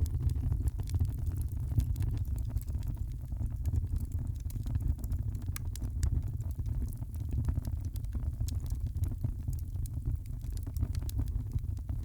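Wood fire crackling: many small, sharp pops and snaps scattered irregularly over a steady low rumble.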